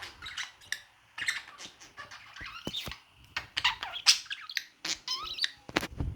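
Budgies chirping and chattering in quick, short calls, with a few sharp clicks, the loudest near the end.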